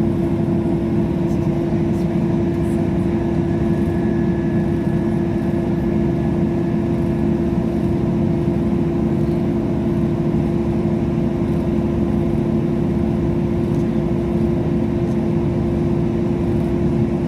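Steady drone of a train running at an even pace: a constant low rumble with a steady hum held at one pitch, no rise or fall.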